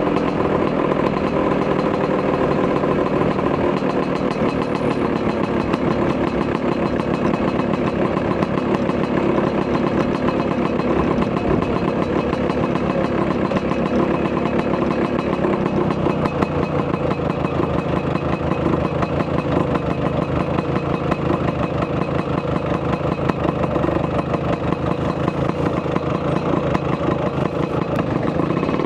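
Vespa PX200's two-stroke single-cylinder engine, bored out to 210 cc with a Polini kit, running through a Malossi expansion-chamber exhaust: a steady, rapid exhaust beat. Its note shifts about halfway through.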